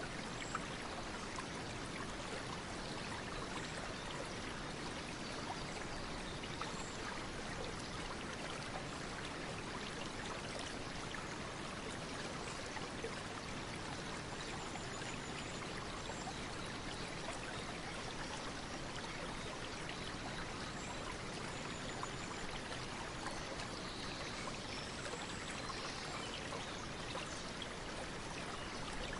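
Steady flowing water, like a stream running continuously at an even level.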